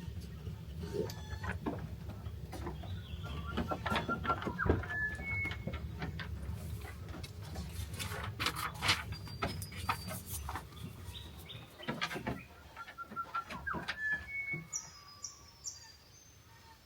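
Birds chirping in short whistled notes, one phrase heard twice, over a steady low rumble with scattered sharp clicks.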